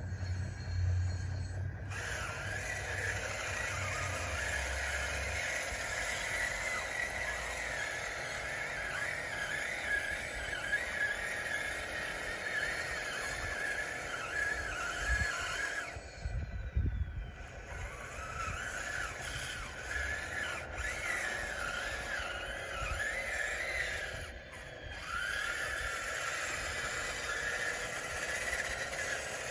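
DXR2 RC bulldozer's electric drive motors and gearboxes whining as it pushes dirt, the whine wavering in pitch as the load changes. It stops briefly about halfway through and again near the end, then starts back up.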